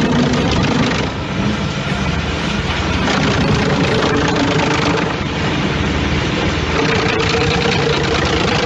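Heavy machinery running loud and steady: an engine under load with steady hum tones beneath a dense rushing, grinding noise. The noise cuts off abruptly at the end.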